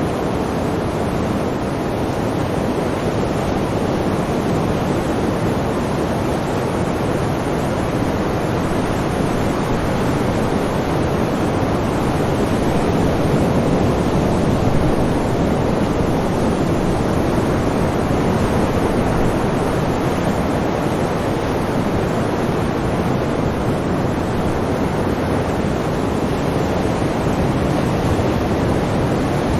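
Sea surf: a continuous rushing wash of waves that swells slightly around the middle.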